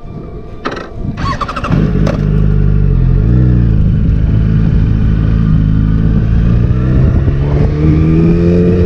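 Yamaha motorcycle engine, loud and steady from about two seconds in, with one short rev. Near the end its pitch rises steadily as the bike accelerates away.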